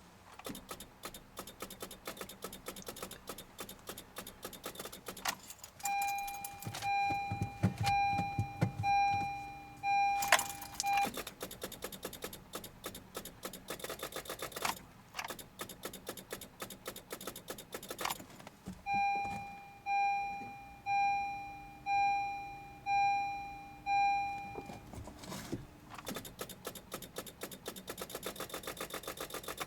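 A Honda CR-Z that will not start in deep cold: rapid, continuous electrical clicking from the car, with a brief low rumble early on. Twice, a warning chime beeps about once a second for several seconds.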